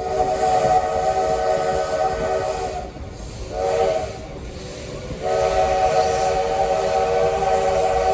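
Steam locomotive's chime whistle blowing a chord of several notes in three blasts: a long one, a short one about three and a half seconds in, and another long one starting about five seconds in, with a steady hiss underneath.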